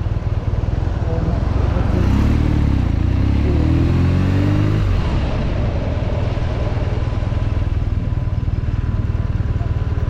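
BMW R nineT's air- and oil-cooled boxer twin running at low speed, revving up as it accelerates about two seconds in, then easing off about five seconds in and settling back to a steady low running.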